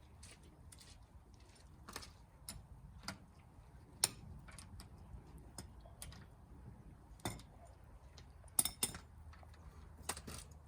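Irregular metallic clicks and clinks of wheel nuts and tools being handled during a wheel change, the sharpest about four seconds in and a close pair near the end.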